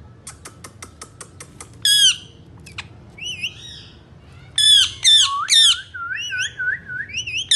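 Pet parrots calling: a quick run of about nine sharp clicks, then loud, harsh squawks, each dropping in pitch, and a fast string of short rising chirps near the end.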